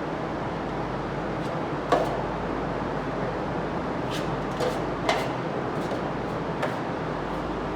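A steady, even rushing noise, like a fan or machine running, with a few sharp knocks or clatters: one about two seconds in, two close together around five seconds, and a lighter one near seven.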